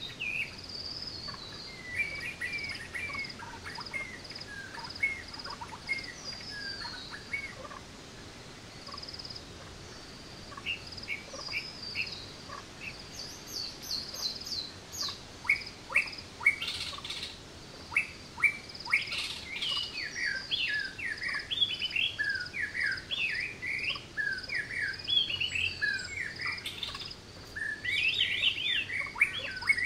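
Forest birds chirping and calling, several at once, over a steady string of short high notes repeated again and again. The chirping grows busier and louder about halfway through.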